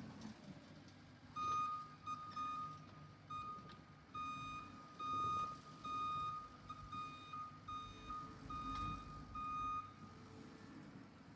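Reversing alarm on the power-raking machine beeping in a run of high beeps that starts about a second in and stops near the end, over the machine's engine running.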